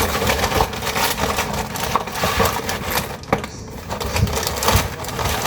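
Crackling and rustling of a cereal box and its packaging being handled, with dry cereal pieces shifting and rattling inside, as a run of irregular small clicks.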